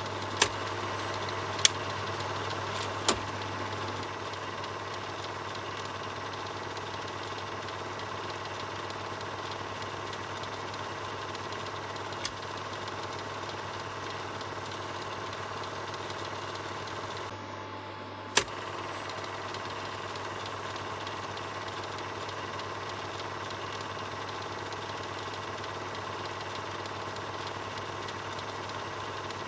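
Film projector running with a steady mechanical whirr and hum, broken by a few sharp clicks: three in the first few seconds and one about 18 seconds in, just after the sound briefly thins out.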